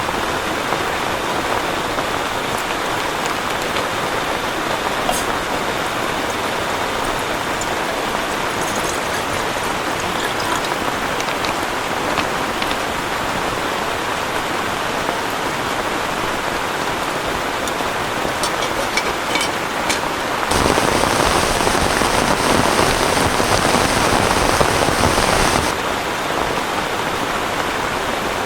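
Heavy rain falling steadily, with a louder, harder spell of about five seconds some two-thirds of the way through.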